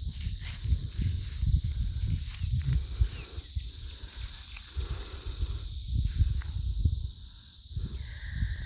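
Footsteps and rustling through grass with irregular low thumps, over a steady high chirring of insects.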